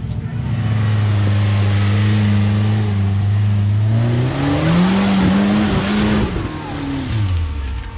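Off-road rock-crawling rig's engine running steadily, then revved hard about four seconds in, its pitch rising, with a loud noisy rush of spinning tires on rock, before it drops back off near the end.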